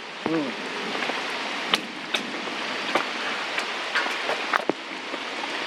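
Steady rain falling, an even hiss with scattered sharp drips and taps of drops hitting surfaces.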